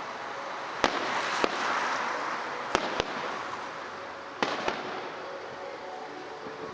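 Fireworks display: about five sharp bangs of bursting shells spread over the seconds, two of them close together near the end, over a constant hiss.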